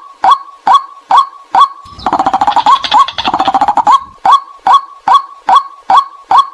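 White-breasted waterhen calls played as a decoy: a loud, clipped note repeated evenly about two and a half times a second. About two seconds in, this gives way to roughly two seconds of rapid, harsher chattering, and then the even calling resumes.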